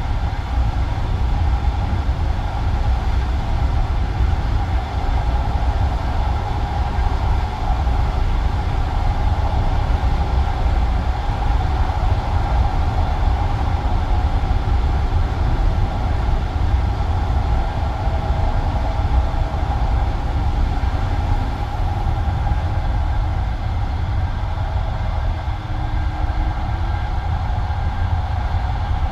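Passenger railway carriage running along the line between stations, heard from inside the carriage: a steady, loud rumble of wheels on rails and running gear, even throughout with no distinct events.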